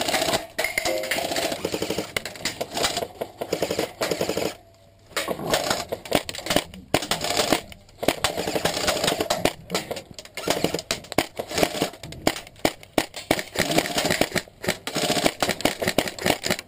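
Sustained rapid airsoft gunfire: a dense clatter of shots and BB hits, with a short lull about four and a half seconds in.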